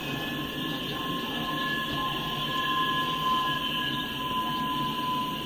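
Empty steel coal hopper cars rolling past with a steady rumble of wheels on rail. Over it runs a steady high-pitched squeal of wheels on the rail.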